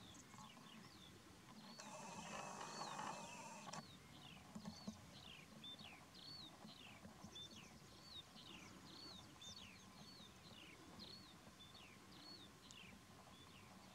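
Faint, repeated short bird chirps, one or two a second, each a quick high whistle that slides down or hooks in pitch. A brief rustling hiss comes about two seconds in.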